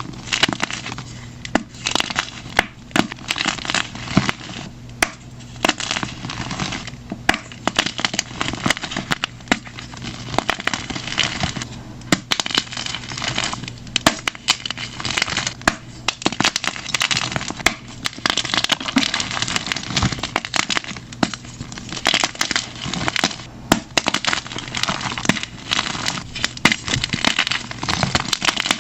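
Blocks of plain gym chalk crushed and crumbled by hand, with dense, continuous crunching and crackling.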